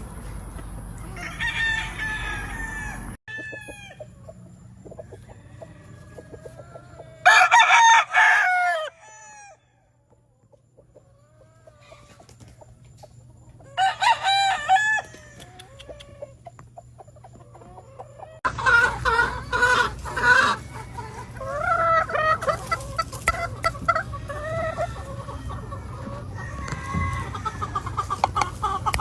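Gamefowl roosters crowing: two loud crows, one about seven seconds in and one about fourteen seconds in, each lasting one to two seconds. In the last third many birds crow and cluck over one another.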